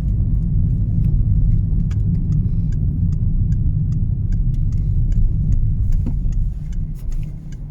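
Steady low rumble of a car being driven along a road, with faint scattered ticks; it eases a little near the end.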